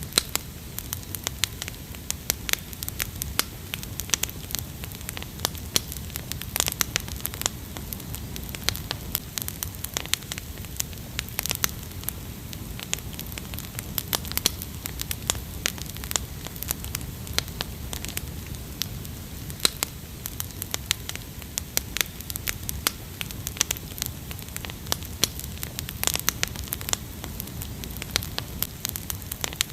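Wood fire crackling: irregular sharp pops and snaps, several a second, over a low steady rush.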